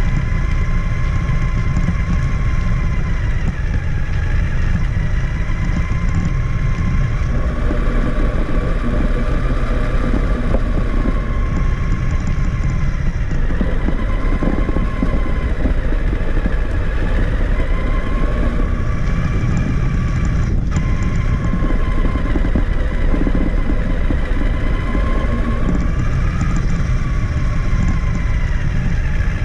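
Traxxas Summit RC truck's electric motor and gears whining from the onboard camera, the pitch rising and falling several times as the throttle and speed change, over a constant low rumble. There is a brief click about 20 seconds in.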